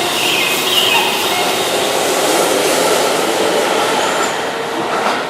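Keihan electric train running on the rails: a steady rushing wheel-and-rail noise with faint steady tones over it, easing slightly near the end.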